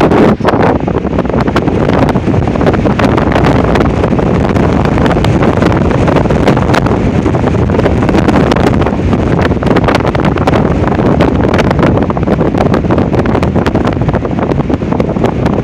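Strong windstorm wind, gusting to about 60 mph, buffeting the microphone: a loud, continuous rumble with many crackling pops.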